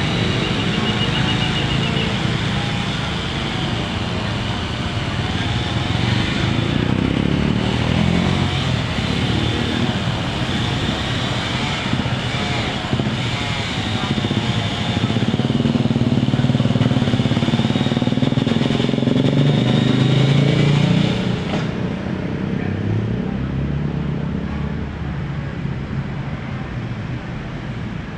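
An engine running continuously, its pitch wavering up and down; the higher part of the sound drops away about three-quarters of the way through, leaving a lower steady engine note.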